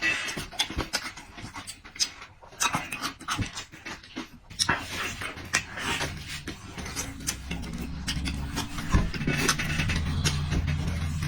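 Close-miked eating: chewing and slurping, with many small wet clicks and smacks. A low steady hum joins about six seconds in.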